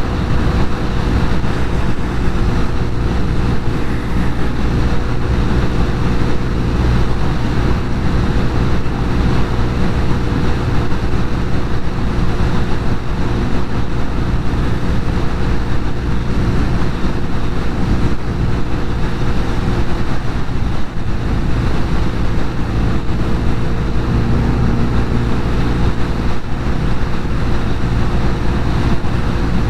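Norton Commando 850 Mk2's air-cooled parallel-twin engine running steadily under way, its note dipping once briefly about two-thirds of the way through.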